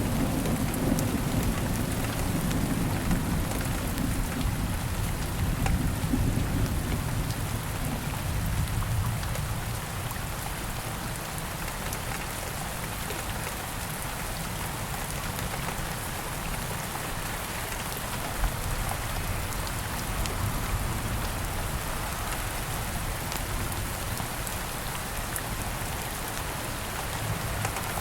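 Steady rain falling, with a low rumble of thunder that rolls away and fades over the first ten seconds or so, leaving only the even hiss of rain.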